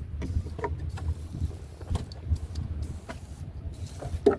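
Wind buffeting the microphone in a low, gusting rumble, with a few light knocks and taps scattered through it and a sharper one near the end.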